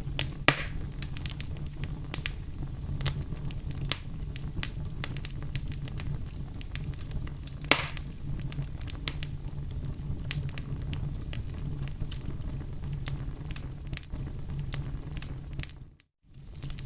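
Campfire crackling: burning wood with a steady low rumble and frequent sharp pops. There are two louder pops, about half a second in and near eight seconds. The sound drops out briefly near the end.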